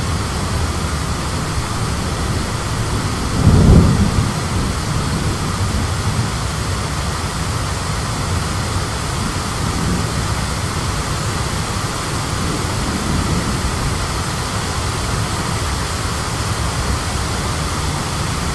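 Thunderstorm: a steady rush of high wind and rain, heavy in the lows, with a brief louder low rumble about three and a half seconds in.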